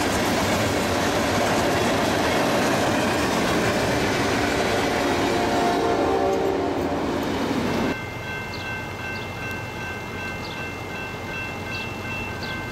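Freight train's covered hopper cars rolling past on the rails, a steady loud rumble with a distant train horn sounding faintly near the middle. About eight seconds in, the rumble cuts off abruptly to quieter surroundings with a faint steady high tone and a few short chirps.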